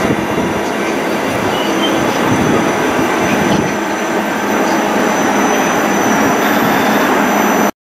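Koleje Mazowieckie double-deck passenger train moving along the platform: a steady rumble of wheels on rail with several steady high whines over it. The sound cuts off abruptly just before the end.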